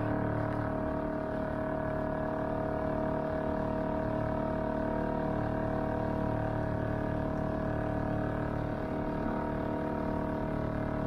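A sailboat's small outboard motor running steadily at cruising speed: an even, unchanging drone with one strong steady tone.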